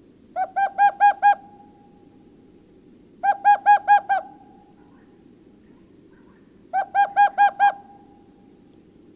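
A bird calling: three runs of about five quick, clear pitched notes each, a few seconds apart, each run ending in a short held tone, over a steady low hiss.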